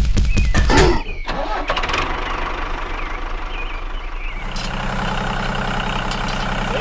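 Vehicle engine starting: a fast, even clatter in the first second, then it runs and settles into a steady idle about four seconds in.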